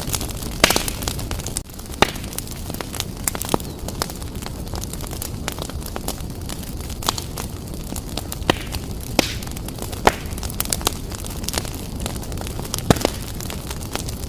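Wood fire burning briskly in a fireplace: a steady low rush of flames with sharp, irregular crackles and pops from the burning logs.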